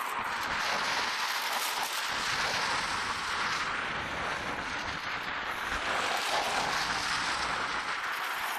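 Steady rushing noise of wind and road while riding a bicycle, with no distinct events.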